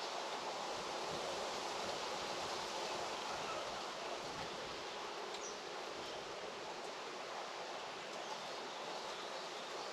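Steady outdoor ambient hiss of a rural farm setting, with a faint high chirp about five seconds in.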